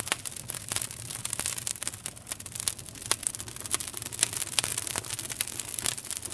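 Wood campfire crackling, with frequent sharp pops coming irregularly, some louder than the rest.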